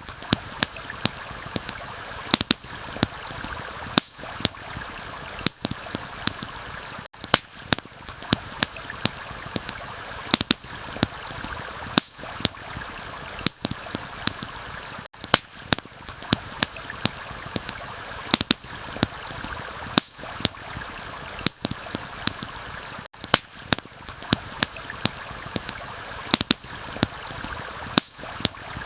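Steady rush of a stream, with a campfire crackling over it in sharp, irregular pops, a few each second.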